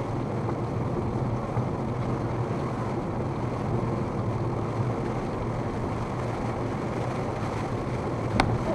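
Steady in-cabin noise of a Mazda wagon driving in very heavy rain: a low, even drone from the road and car with the wash of rain and wet tyres over it. A single sharp click near the end.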